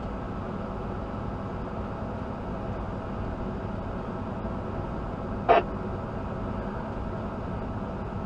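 Steady drone inside a moving truck's cab: engine and road noise with several steady hum tones. About five and a half seconds in, one short, sharp sound stands out well above the drone.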